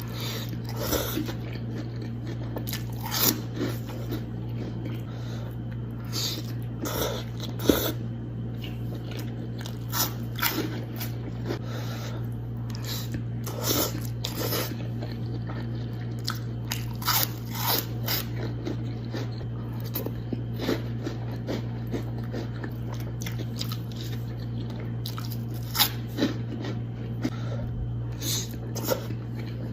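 Close-miked chewing of a Chipotle bowl with hot Cheetos puffs: wet chewing broken by many irregular sharp crunches, over a steady low hum.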